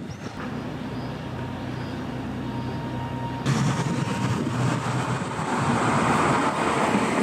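A road vehicle approaching, its engine and tyre noise growing louder, with a sudden rise to a loud hiss about halfway through.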